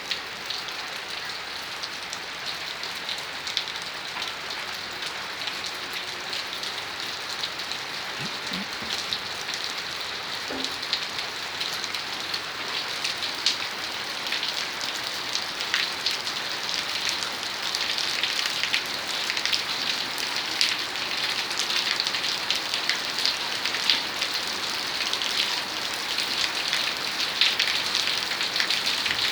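Rain falling, a steady hiss dense with sharp drop ticks that grows gradually heavier over the half minute.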